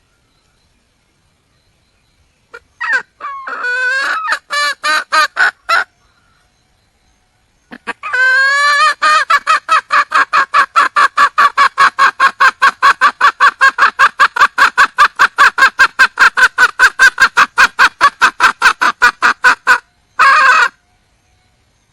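Wild red junglefowl hen calling. A short run of clucks comes first, then after a pause a long, fast series of clucks at about five a second that lasts some twelve seconds, and one brief harsher note near the end.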